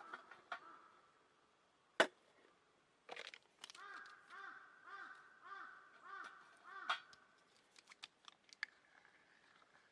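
A crow calling, a quick series of about six caws, roughly two a second, after a single sharp click about two seconds in.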